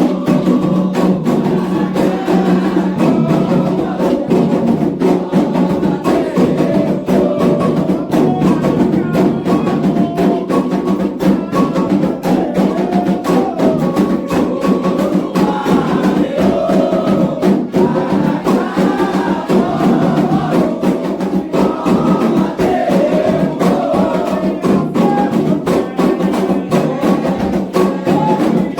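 Candomblé atabaque drums playing a fast, unbroken rhythm for Oxumaré, with a bell or wood-like percussion keeping time. Voices sing over the drums, clearest in the second half.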